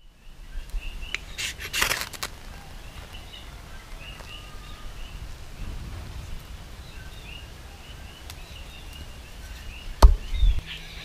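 Small birds chirping in short repeated notes, with a brief cluster of sharp clicks about two seconds in and a single sharp knock near the end.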